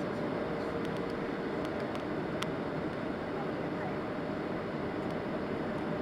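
Steady jet cabin noise inside a Boeing 737-600 with CFM56 engines, an even rush of engine and airflow with a faint steady hum. A light click sounds about two and a half seconds in.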